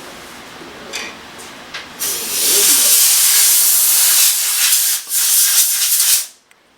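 A loud hiss of pressurised air or spray lasting about four seconds, with a brief break near the end, then cut off sharply. A few light clicks come before it.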